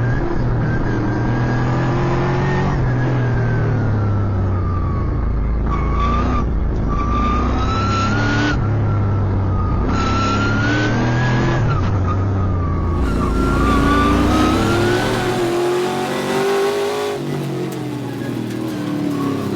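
V8 race car engine at racing speed, its pitch repeatedly climbing as it revs up and dropping back between gears and corners. The sound changes abruptly about thirteen seconds in, then the engine's pitch rises again.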